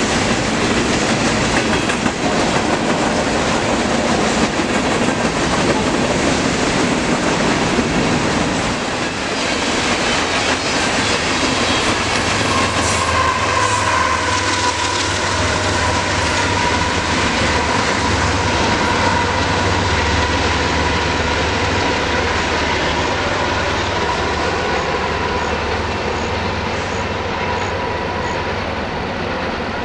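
Freight train of covered hopper cars rolling past with steady wheel and rail clatter. About a third of the way in, the diesel-electric locomotive at the rear of the train passes, adding a low steady engine rumble and a wheel squeal, and the noise eases slightly near the end as the train draws away.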